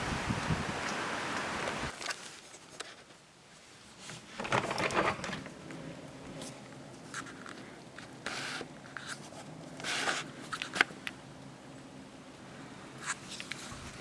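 Wind buffeting the microphone, which dies away about two seconds in. After it come scattered short rustles and scrapes, the loudest a few seconds in.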